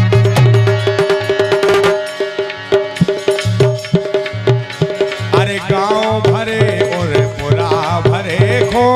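Instrumental passage of a Bundeli folk song: a hand drum plays a steady rhythm over sustained held tones, and about five seconds in a wavering melody line with vibrato joins in.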